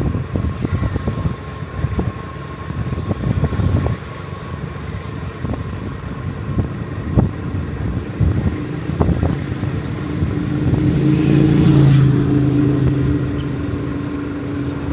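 A motor engine running with a steady hum that grows louder about ten seconds in, then eases off, over low rumbling noise and knocks in the first half.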